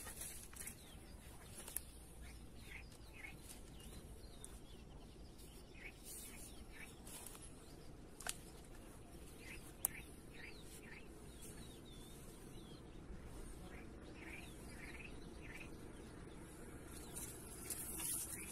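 Faint outdoor ambience of small birds chirping in short, scattered calls, with a couple of sharp clicks about 8 and 10 seconds in.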